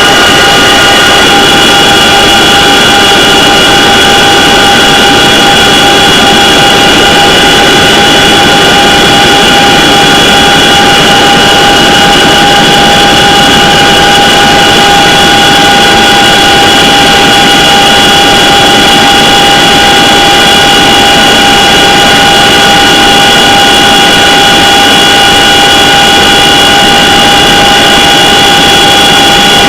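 CH-47 Chinook helicopter running, loud and unchanging: a steady high whine of several fixed tones over an even rush of engine and rotor noise.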